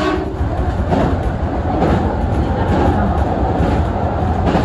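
Express train running at speed over a steel truss bridge, heard from inside the front of the train: a steady rolling rumble with sharp knocks from the rails, two about a second apart near the start and another at the end.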